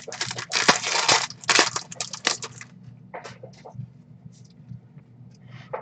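Foil trading-card pack wrapper crinkling and crackling as it is torn open and handled, dense for the first two or three seconds, then a few scattered small clicks and rustles of card handling.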